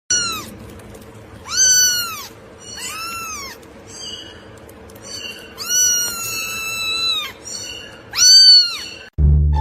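Domestic cat meowing repeatedly: four drawn-out meows that rise and fall in pitch, the third held for well over a second.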